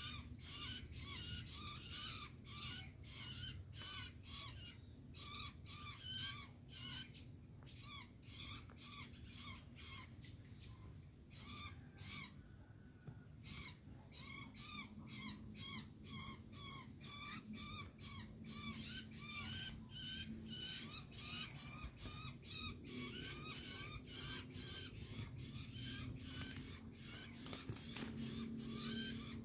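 Long-tailed shrike (cendet) calling in a rapid, near-continuous stream of short notes, several a second, with a brief lull about twelve seconds in.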